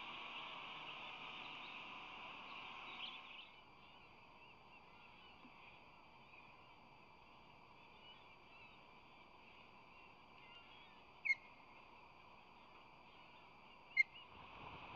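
Steady outdoor background noise that drops to a quieter hush about three and a half seconds in, broken by two short, high bird chirps, one about eleven seconds in and one near the end.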